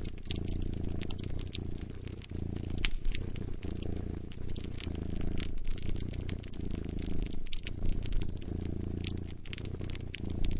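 A cat purring, a low rumble that pauses briefly about every two seconds as it breathes, over a wood fire crackling with many small sharp pops.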